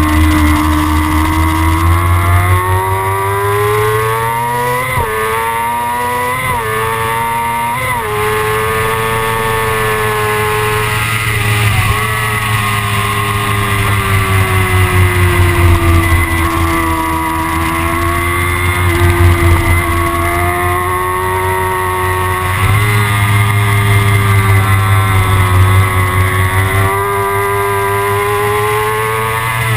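Kawasaki ZX-6R inline-four engine under way. Its pitch climbs and drops sharply three times in quick succession a few seconds in, as the bike accelerates through the gears. After that it rises and falls with the throttle.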